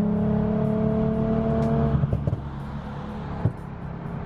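Car engine heard from inside the cabin, pulling steadily with its pitch slowly rising, then easing off to a quieter hum about two seconds in. A short knock comes near the end.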